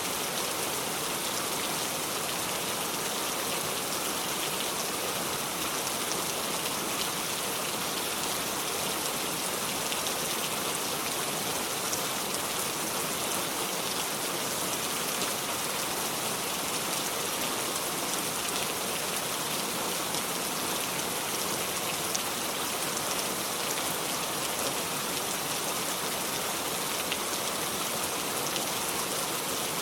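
Steady heavy rain falling on a surface, a constant hiss of many fine drops with no thunder.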